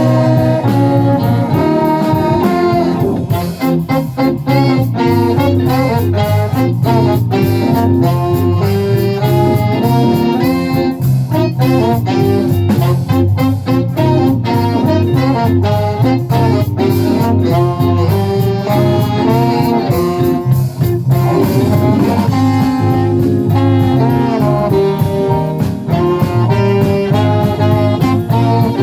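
A live band plays an instrumental passage with brass and saxophone over a steady bass line and a drum beat, in a jazzy style.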